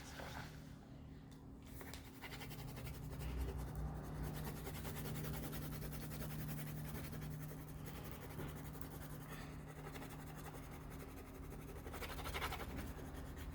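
Crayon rubbing back and forth on paper, a steady fine scratching as an area is coloured in, over a steady low hum.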